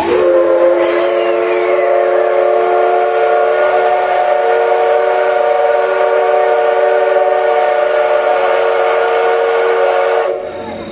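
Steam whistle of the Chichibu Railway's C58 steam locomotive giving one long blast of about ten seconds, several steady tones sounding together, cut off suddenly near the end. It is the locomotive's departure signal, coming shortly after the platform announcement that the train is about to leave.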